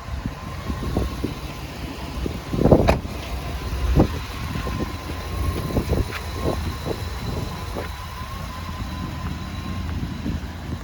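Clicks and knocks from the box truck's side-door latch and door being worked, with one louder bang about three seconds in, over a low steady rumble.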